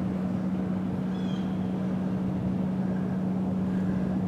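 A steady low hum held at one pitch over a hiss-like background, with a faint short high chirp about a second in.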